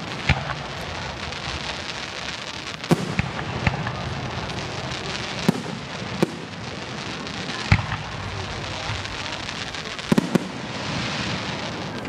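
Fireworks display: about nine sharp bangs of bursting shells at uneven intervals, over a steady crackle that runs throughout.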